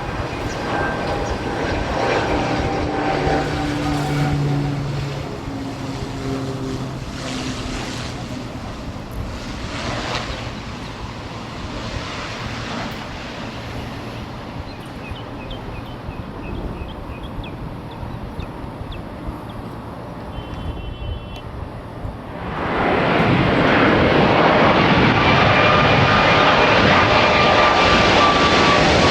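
Jet airliner engines: a steady whine and rumble of an aircraft on or near the runway, then about two-thirds of the way through a much louder jet comes in suddenly, its engine noise swelling into a rushing sound with a slowly falling whine as it passes close.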